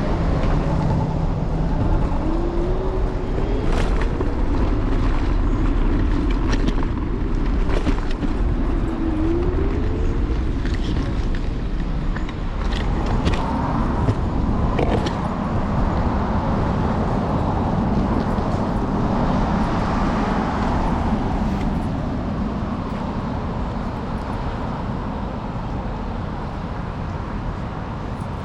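City street traffic with cars passing, over a steady low rumble of wind and road noise from a moving electric scooter, with a few sharp clicks and knocks.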